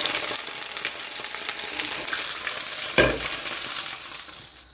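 Garlic-ginger paste sizzling and crackling in hot oil in a frying pan as it is stirred with a silicone spatula. A single sharp knock comes about three seconds in, and the sizzle fades out near the end.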